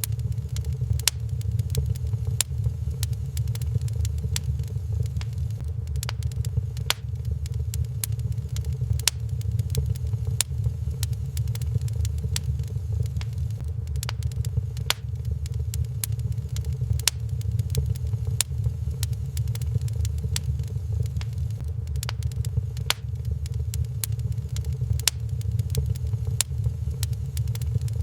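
Wood fire crackling in a fireplace, with frequent sharp irregular pops and snaps over a steady low rumble.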